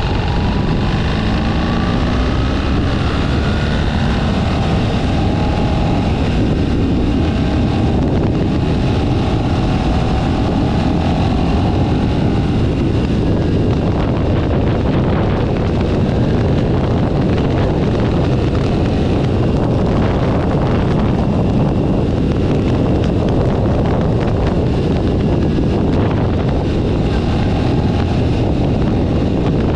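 Motorcycle under way: the engine note rises in pitch several times through the first dozen seconds, then heavy wind noise on the microphone dominates while the engine runs on underneath.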